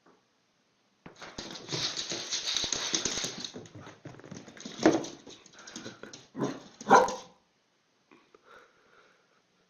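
A dog barking a few times, the loudest barks about five and seven seconds in, after a couple of seconds of hissing noise.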